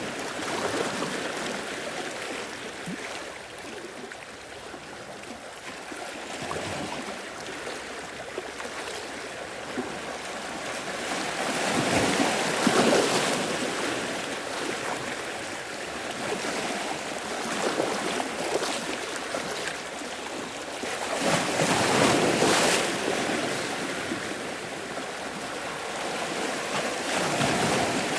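Sea waves washing in and out, the surf swelling in slow surges with louder breakers about a third of the way in, near three-quarters and near the end.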